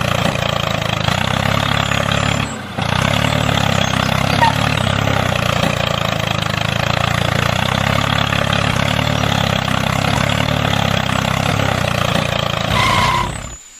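Tractor-type engine running steadily at idle, with a low, even drone. It drops out for a moment about three seconds in and stops abruptly near the end.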